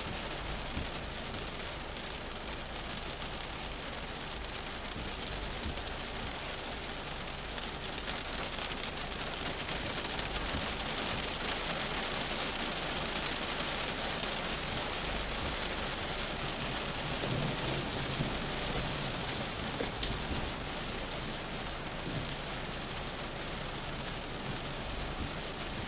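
Heavy rain falling on a car's windshield and roof, heard from inside the car; it grows heavier in the middle stretch and eases again near the end.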